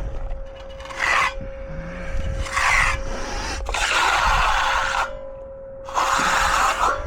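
A concrete finishing tool scraping across a fresh concrete slab in about four separate strokes, each lasting up to a second. A faint steady tone runs underneath.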